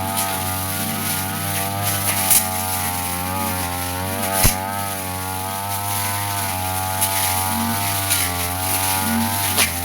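Petrol brush cutter running at high speed with its blade cutting grass. The engine note wavers as the load changes, and sharp ticks come a few times as the blade strikes stems.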